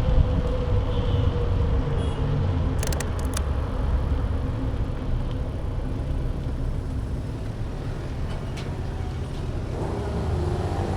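Riding noise on a bike-mounted action camera's microphone: a steady low rumble of wind and road, with a quick cluster of sharp clicks about three seconds in.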